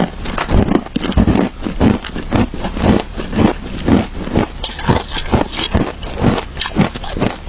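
Close-up crunching of frozen shaved ice with matcha being chewed, a steady rhythm of crisp crunches two or three a second.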